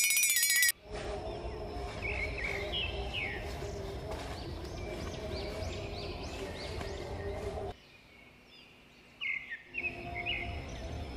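A loud, high electronic tone with a slight rise cuts off suddenly under a second in. Then comes outdoor ambience: birds chirping in short quick calls over a steady low hum. The ambience briefly drops out about eight seconds in, and the chirps return.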